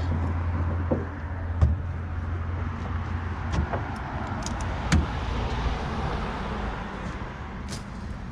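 A vehicle engine idling with a steady low rumble, with a few sharp knocks and clunks from the pickup bed as gas cylinders and a strap are handled.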